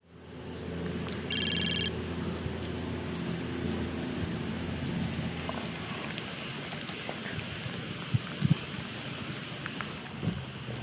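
Steady rain and wind noise under a low hum that fades about halfway through, broken about a second in by a loud, short, high-pitched electronic beep; a few light knocks near the end.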